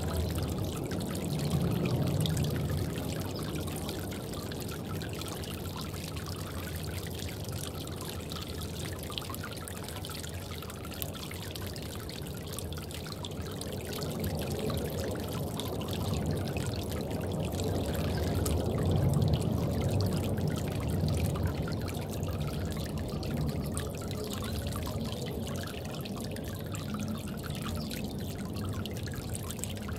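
Water trickling and pouring steadily in a bird bath, with the flow swelling a little louder twice.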